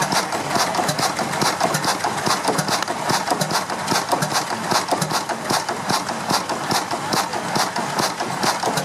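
Vintage stationary engine running steadily, its valve gear and moving parts clattering in a rapid, even beat of several clicks a second.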